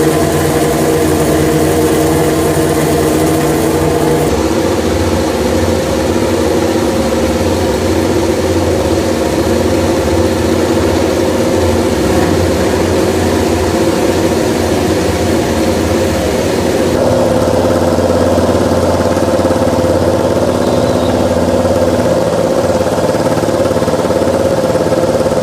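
An engine running steadily at a constant speed, its tone shifting slightly about four seconds in and again later.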